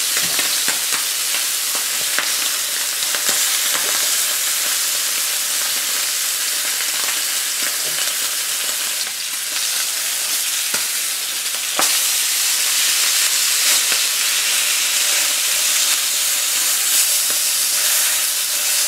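Salmon fillets sizzling in hot oil and butter in a nonstick frying pan, a steady hiss as they sear, nearly done. A couple of light knocks are heard around the middle.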